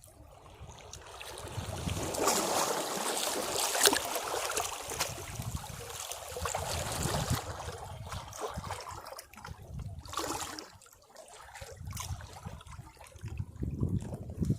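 Sea waves washing against rocks: a wave surges in and breaks about two seconds in, loudest around four seconds, then drains back, with a smaller surge near ten seconds.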